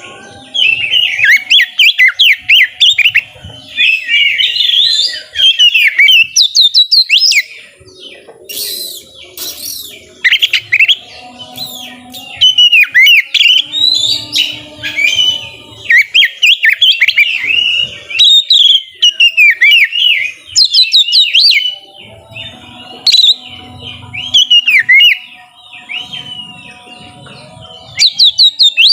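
Oriental magpie-robin (kacer) singing in full, loud bursts: quick runs of sharply rising and falling whistled notes, one phrase after another with short pauses between.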